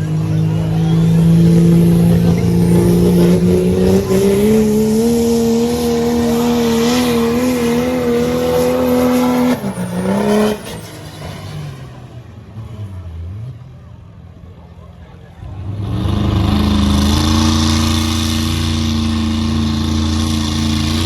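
Modified diesel pulling truck's engine at full power under load, its pitch climbing slowly. About ten seconds in the engine drops off and goes quiet. A few seconds later it comes back loud and holds a steady pitch.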